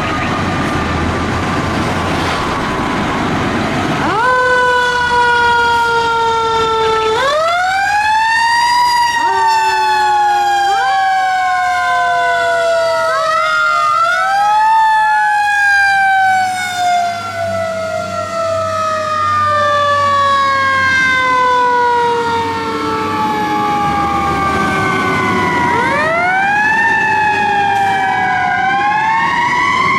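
Fire truck siren wailing over its passing engine and road noise. About four seconds in, the wail begins: it rises quickly, then falls slowly over several seconds, again and again, with two wails overlapping at times.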